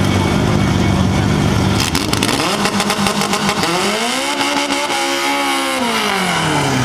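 Turbocharged Honda B20 four-cylinder engine revving for a drag-strip burnout, tyres spinning and smoking. The engine note climbs from about two seconds in, holds high for about two seconds, then falls away near the end.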